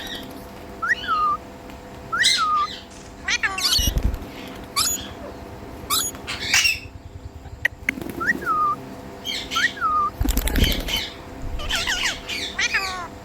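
Ringneck parrot calling: short, sharp chirps repeated about once a second, with two dull thumps partway through.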